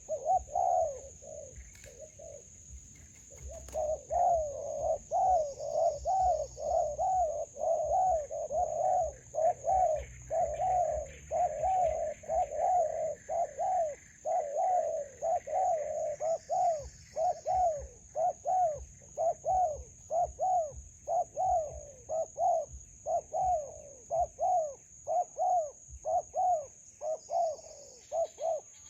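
Spotted dove giving a long run of short repeated coos, about one and a half a second, with a brief pause about two seconds in. A steady high-pitched insect drone runs underneath.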